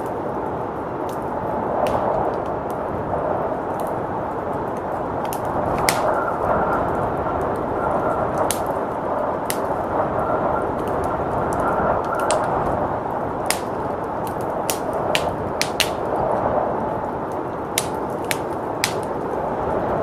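Wood fire crackling in a fireplace, with irregular sharp snaps, over a steady rush of blizzard wind.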